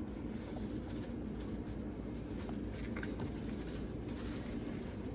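Steady low background hum with a few faint light ticks and rustles as a spice container is handled and worked open.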